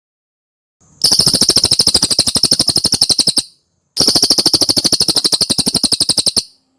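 Cililin song: two fast, dry trills of about a dozen sharp notes a second, each lasting about two and a half seconds, separated by a short pause. They start about a second in.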